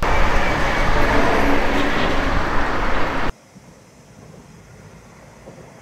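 A train passing over a railway bridge: loud, steady running noise that cuts off abruptly about three seconds in, leaving quiet outdoor background.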